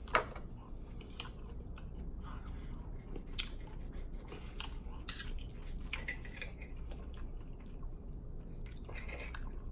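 Close-miked chewing of pork chop: irregular wet mouth clicks and smacks, with a sharp click right at the start.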